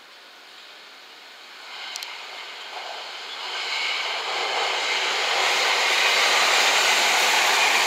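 JR West 227 series 'Red Wing' electric multiple unit running through a station without stopping: the rushing noise of the train on the rails starts about a second and a half in and grows steadily louder as the train draws level, then holds loud.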